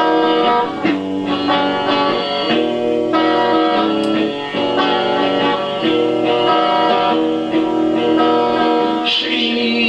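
Guitar music: an instrumental intro of strummed and plucked chords.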